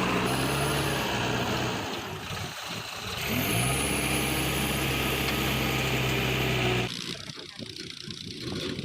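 JCB 3DX backhoe loader's diesel engine working under load: it runs high, drops about two seconds in, then revs back up and holds steady. Near the end it cuts off abruptly to a quieter, rougher engine sound.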